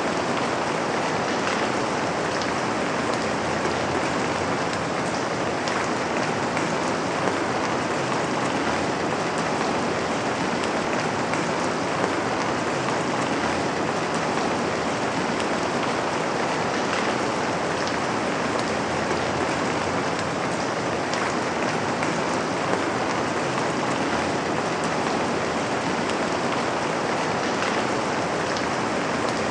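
Steady rain falling: an even hiss, with a few sharper drop taps standing out now and then.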